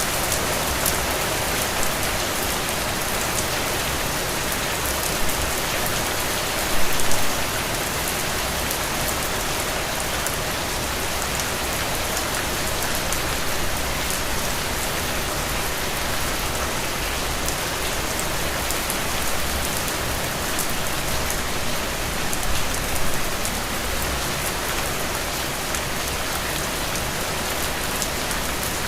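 Heavy rain falling steadily, with fine ticks of individual drops through it. A brief louder patch about seven seconds in.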